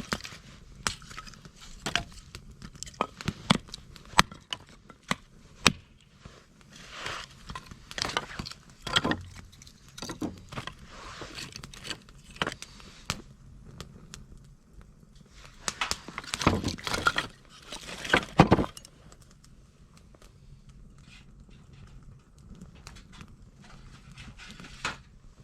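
Wood fire crackling with scattered sharp pops, and a louder bout of clattering handling noise a little past the middle.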